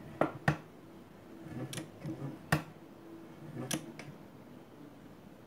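About five sharp clicks and taps spread over four seconds from the presser-foot lift and tension parts of an old JUKI sewing machine being moved by hand.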